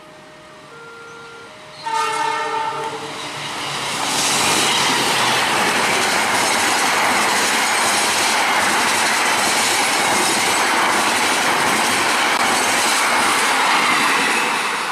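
Level-crossing warning signal chiming in two alternating tones; about two seconds in, a locomotive horn sounds once, about a second long, and a passenger train then rushes through the crossing at speed with steady, loud wheel-and-rail noise.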